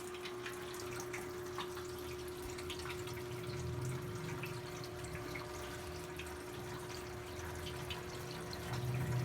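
Brastemp BWK17 17 kg washing machine filling with water at the start of its quick cycle: water running in, with a steady hum underneath. A low rumble swells about three and a half seconds in and again near the end.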